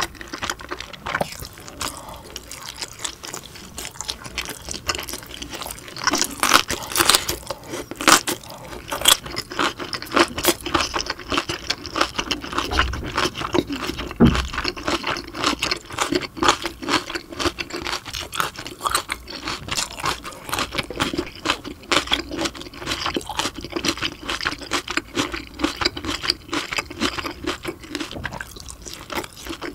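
Close-miked chewing of steamed dumplings: wet, squishy mouth sounds made of many small irregular clicks and smacks.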